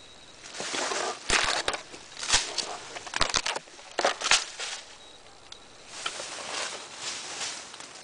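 Uneven crunching footsteps through splintered wood debris on the ground, loudest in the first few seconds, with a short pause about five seconds in before softer steps.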